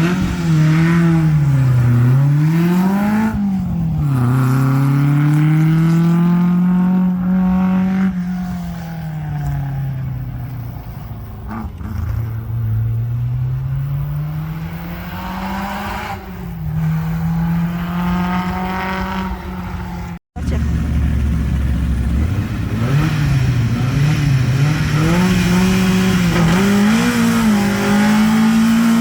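Historic rally car's engine accelerating hard through the gears, the revs climbing and dropping at each shift as the car pulls away and fades. After a sudden cut, another rally car's engine is blipped and revved repeatedly.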